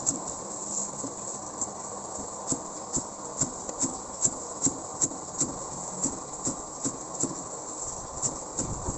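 Close-up eating sounds: a person chewing noodles and meatballs, with short wet smacks coming about two to three a second over a steady hiss.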